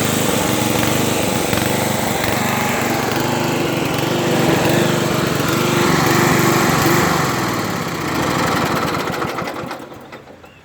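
Craftsman riding lawn tractor's 11 hp Briggs and Stratton engine running steadily, then winding down and stopping near the end.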